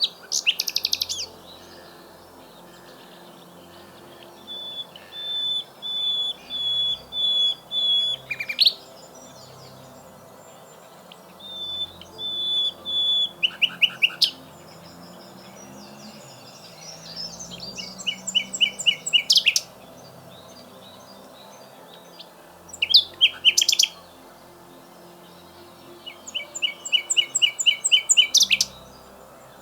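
Common nightingale singing in six separate phrases with pauses of a few seconds between them: fast runs of repeated notes and trills, with one phrase a slow series of level whistled notes that ends in a quick rattle.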